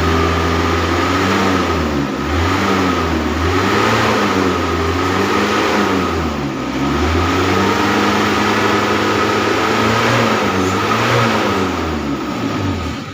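Car engine being revved over and over during an engine decarbonization treatment, the throttle blipped so its pitch rises and falls every couple of seconds to blow carbon out. A steady high whine runs under the engine throughout.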